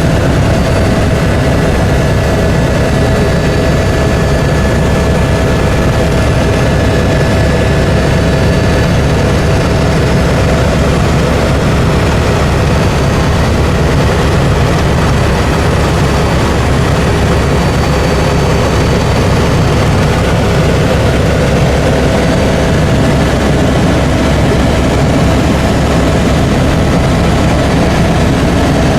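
Helicopter in flight: a steady, loud drone of rotor and turbine noise with a constant whine above it, unchanging throughout.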